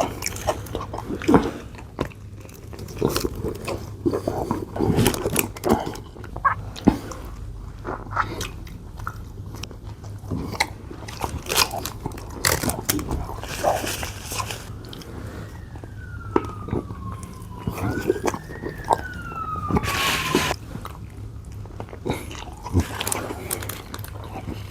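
Close-up chewing and crunching of a Subway sub filled with salad and pickle: wet bites and mouth clicks. Partway through, a siren wails in the background, falling, rising and falling again.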